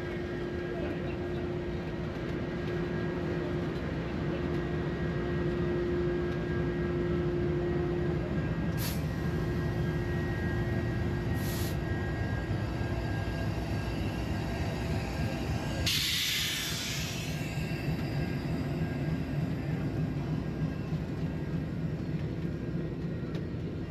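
Union Pacific train of the Big Boy 4014 excursion, a diesel locomotive and its following cars, passing close by with a steady rumble of engine and wheels on rail. A short burst of hiss cuts in about two-thirds of the way through.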